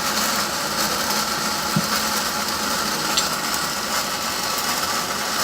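Steady running noise of workshop machinery with a faint constant hum, with a couple of small sharp ticks.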